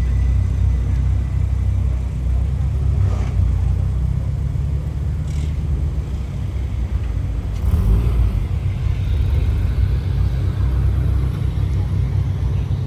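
A car running with a steady low rumble, slightly louder about eight seconds in.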